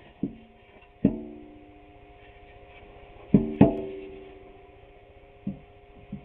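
A series of about six sharp knocks on something that rings. Each knock leaves a cluster of steady tones that fades over a second or two. The loudest knock comes about a second in, and two more follow close together about halfway through.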